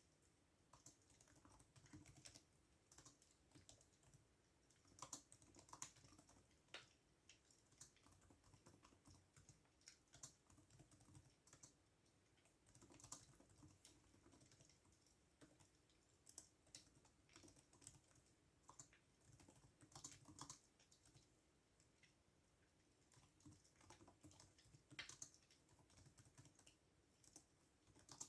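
Faint typing on a computer keyboard: irregular key clicks, with a few louder keystrokes now and then.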